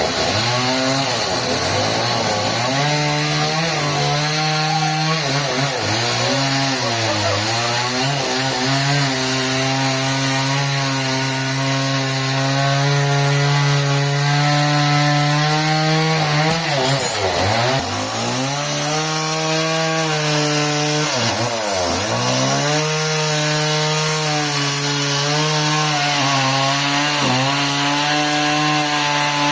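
Engine-driven saw cutting a trembesi (rain tree) log, running steadily at high speed in the cut. Its pitch dips sharply twice, at about 17 and 22 seconds, as the engine bogs under load.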